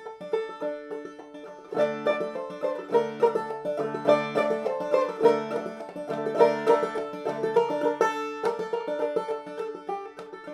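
Clawhammer banjo playing an instrumental passage: a quick run of plucked, ringing notes with a steady beat, and fuller low notes joining about two seconds in.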